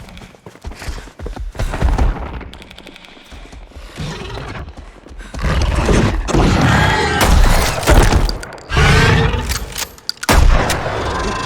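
Film action sound effects: a series of heavy thuds, crashes and shattering, with a rapid clicking about two and a half seconds in, under tense music.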